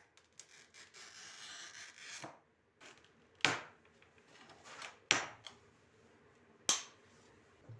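A sheet of glass being scored and snapped by hand: a scratchy stroke of about two seconds, then three sharp cracks a second and a half or so apart.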